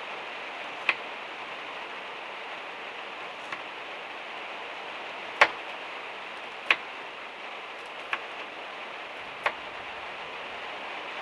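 Rain on the van's metal roof: a steady hiss broken by about six sharp, uneven ticks, the loudest a little past the middle.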